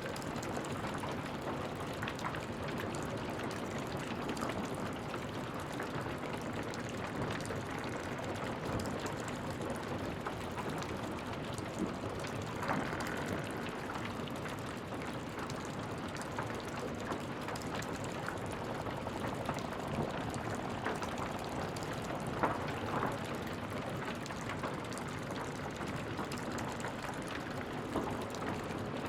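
Wood fire burning in a fireplace: a steady hiss of flames with constant small crackles and an occasional louder pop, one about halfway through and another a little later.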